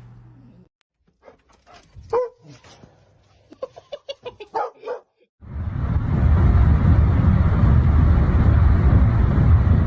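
A dog giving a few short yips and barks, a quick run of them near the middle. Then a loud, steady rushing noise sets in and carries on.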